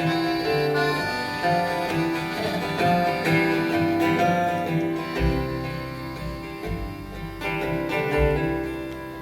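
Live acoustic band playing a song's instrumental introduction, led by plucked acoustic guitar, with low bass notes coming in about five seconds in.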